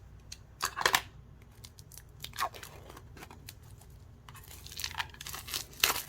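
Scissors cutting into the wrapping of a boxed tarot card deck and the wrapping being torn open: a few short, sharp snips and tears in the first half, then denser crinkling and tearing from about two-thirds of the way in.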